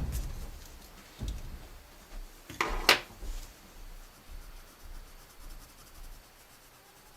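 An eraser rubbing on drawing paper, with a knock or two on the drawing table and one short, sharp scraping stroke about three seconds in, then fainter rubbing that fades.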